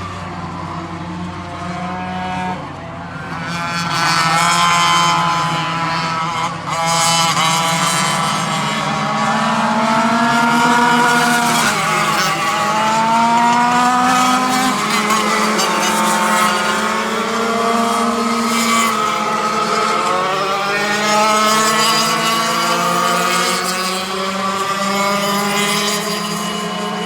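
Several two-stroke racing kart engines running hard at once, their pitch rising and falling as they rev up and back off around the track. The sound grows louder about four seconds in and stays loud, with a steady lower drone under the sweeping pitches.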